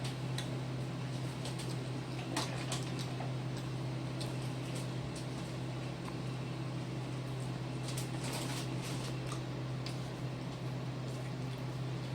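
Eating sounds at a meal of samgyetang: scattered light clicks and taps, a small cluster of them about eight seconds in, over a steady low hum.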